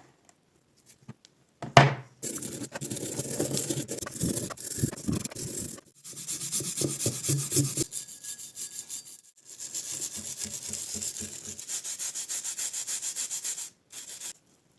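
A brush scrubbing the pipe wrench's metal parts in quick back-and-forth strokes, washing off the residue left by electrolysis rust removal. It comes in three bouts with short pauses, after a sharp knock about two seconds in.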